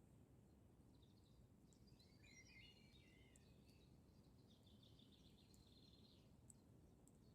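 Very faint forest birdsong: a warbling phrase, then a rapid trill, over a low steady hiss, with a few faint crackles from a campfire near the end.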